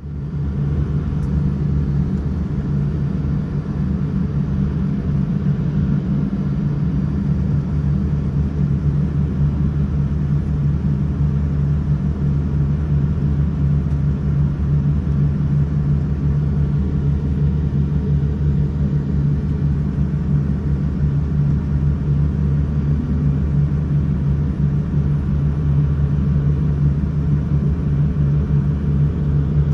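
Steady low rumble of a moving vehicle heard from inside, engine and road noise running evenly throughout.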